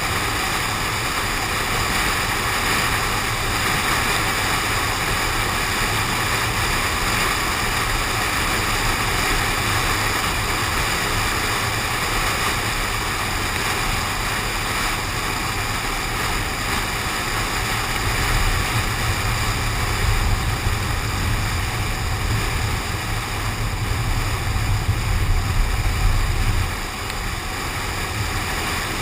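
Car driving in the rain: steady hiss of wind, rain and tyres on the wet road, picked up by a window-mounted GoPro. A heavier low rumble builds in the second half and drops off suddenly near the end.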